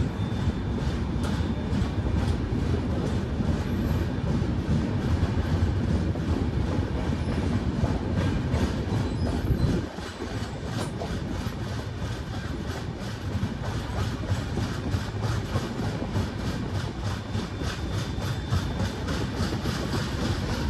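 Dakshin Express passenger train running on the rails: a steady rumble with a rhythmic clickety-clack of the wheels over rail joints. The level drops suddenly about halfway through.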